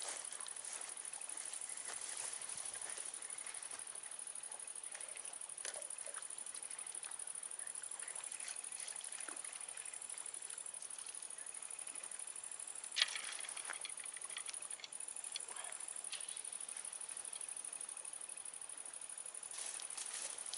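Crickets chirping in a steady high-pitched trill, with scattered small clicks and handling knocks and one sharper click about 13 seconds in.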